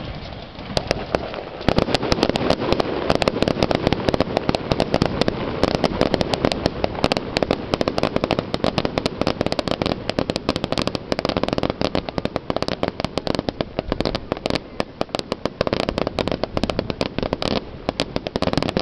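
Fireworks display: a few separate bangs, then from about two seconds in a dense, rapid barrage of bangs and crackles that keeps on without a break.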